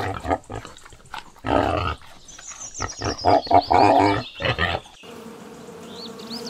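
Pig grunting in short irregular bursts, then, about five seconds in, a switch to a bee's steady buzzing hum.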